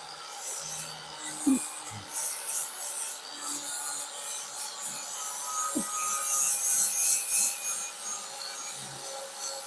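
Long sanding board with 40-grit paper being worked by hand over hardened Duraglass body filler on a car's wheel arch: a coarse, rasping scrape that rises and falls with the strokes.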